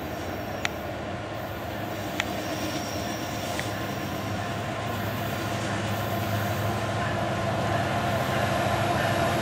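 Diesel freight locomotives approaching around a curve, their engines running steadily and growing louder. Two sharp clicks come in the first couple of seconds.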